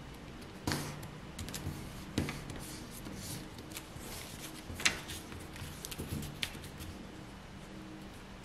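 Square sheet of origami paper being folded and creased by hand: soft rustles and a few sharper crinkles, the loudest about five seconds in. A faint steady low hum runs underneath.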